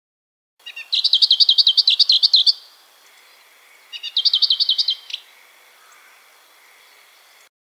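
A songbird singing two fast trills of quickly repeated up-and-down notes, the first about a second and a half long, the second about a second, with a faint steady high tone behind them.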